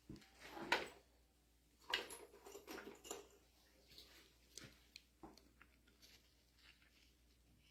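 Faint clicks, taps and rustling of hands working small metal parts, as check balls are picked out of a mini excavator's hydraulic control valve block. The loudest taps come just under a second in and again about two seconds in.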